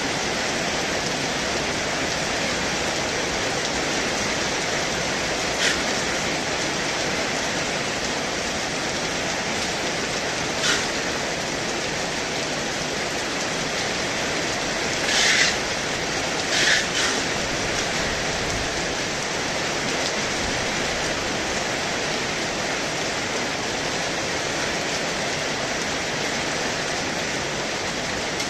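Heavy rain pouring steadily, an even hiss, with four short louder moments near the middle.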